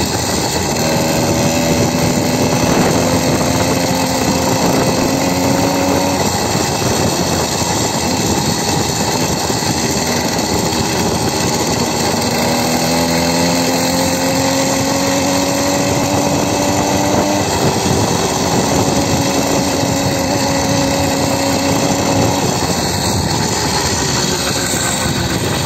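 Motorcycle engine under way. Its pitch climbs slowly as it pulls and then drops back, three times, over a constant rush of wind noise. The motorcycle is being ridden with a failed clutch.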